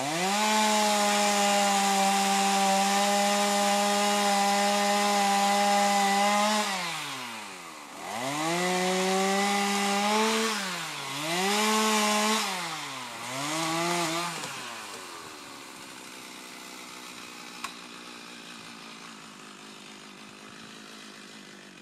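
Chainsaw engine revved up to full throttle and held steady for about six seconds, then let down and blipped up three more times. After that it drops back to a quiet idle.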